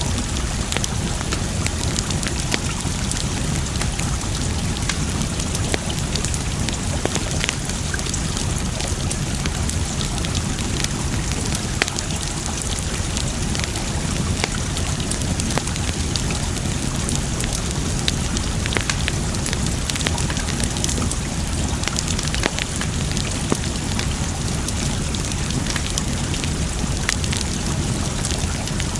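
Campfire crackling, with frequent sharp pops of burning wood, over a steady rush of running water.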